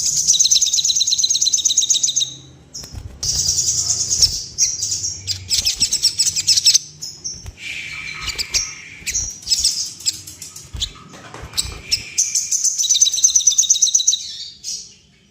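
A sogon songbird calling loudly in rapid, high-pitched trilled phrases with short pauses between them. This is the bird's excited, aggressive song, played as a lure to make other sogon birds fluff up and sing.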